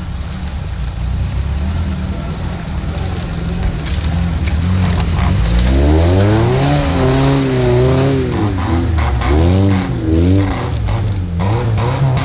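Off-road vehicle's engine working under load. It runs steadily at first, then about five seconds in it revs up, and its pitch swings up and down several times as the throttle is worked.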